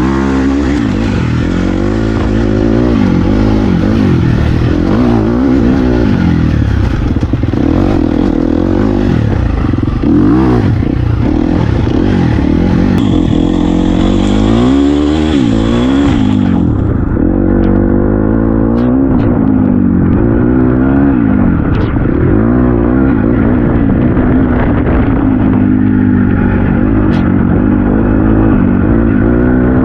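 Dirt bike engine being ridden, revving up and down every second or two as the rider works the throttle. A little past halfway the sound abruptly turns duller, losing its hiss.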